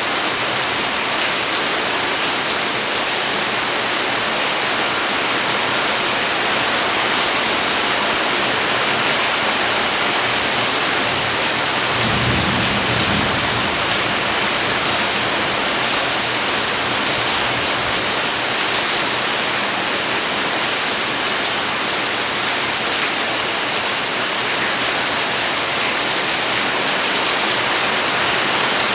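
Steady heavy rain falling, an even hiss of water, with a brief low rumble about twelve seconds in.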